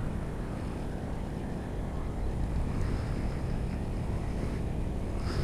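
Wind buffeting the microphone outdoors: a steady low rumble with no distinct tones.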